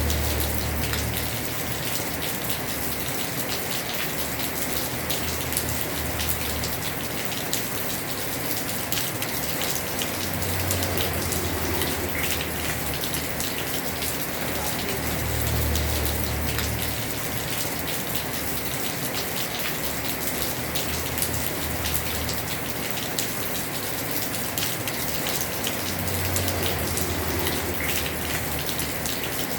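Heavy rain drumming on a house roof, a steady dense patter of drops. A low rumble swells and fades several times, a few seconds each.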